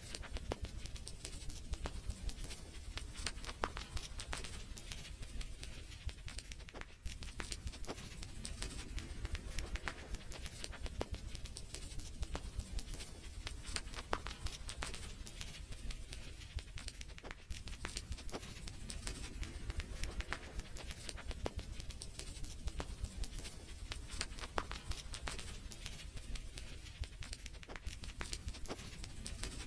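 Wood fire crackling in a fireplace: dense, irregular sharp pops and snaps over a low steady rumble.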